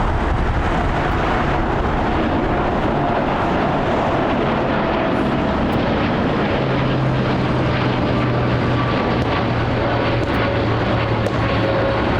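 Boeing 787 Dreamliner's jet engines running loud and steady, with a few held tones over the engine noise.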